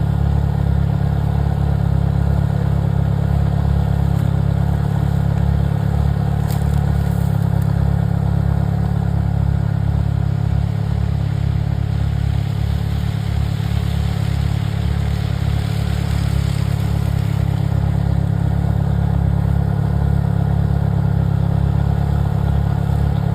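Vehicle engine running steadily at an even speed, a low, loud hum with no revving.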